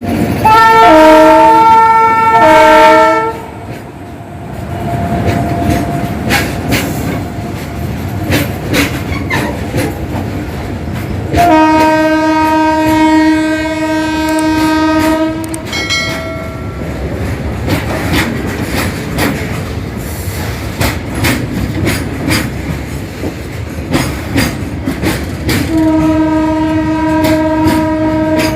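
Indian Railways freight train passing, its wagon wheels clattering over the rail joints, while the locomotive sounds its horn: two short blasts at the start, one long blast of about four seconds around the middle, and another long blast near the end.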